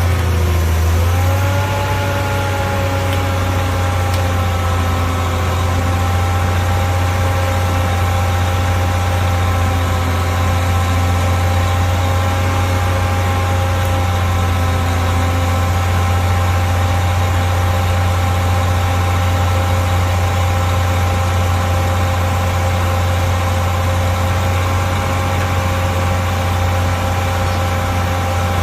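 An engine running steadily at idle. Its pitch dips briefly at the start and recovers within about two seconds, then holds even, over a heavy low hum.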